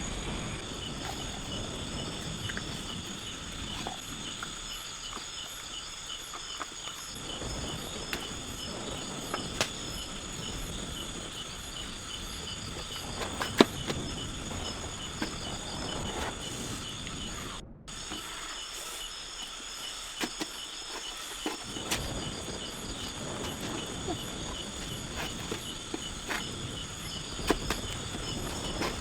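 Insects trilling in a steady high, pulsing chorus, with scattered sharp clicks and taps and a brief dropout about two-thirds of the way through.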